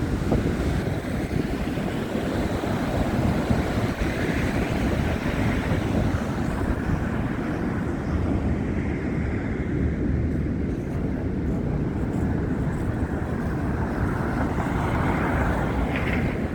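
Wind buffeting a phone's microphone: a steady, fluttering low rumble of noise, with a couple of brief swells in the hiss.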